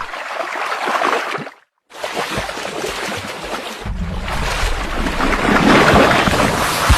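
Surf breaking on the beach, a loud rush of churning water that cuts out briefly near two seconds. From about four seconds in, a deep rumble joins and builds to its loudest near the end.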